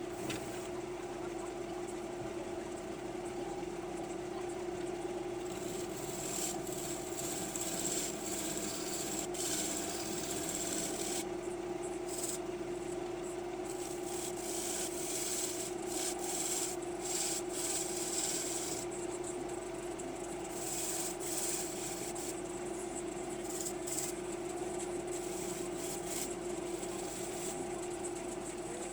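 Wood lathe running with a steady hum while a gouge cuts a green maple bowl blank, the scraping of the cut coming and going in passes.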